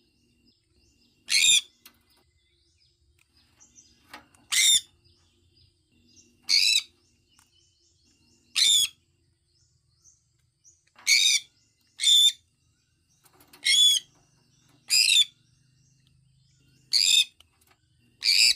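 Sun conure calling: about ten short, loud, high-pitched calls, one every one to two seconds, with a quick pair of calls around the middle.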